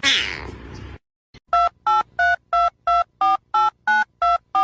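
A cat's meow trails off in the first second. A telephone keypad then sounds ten short two-note dialing beeps, about three a second, as a number is dialled.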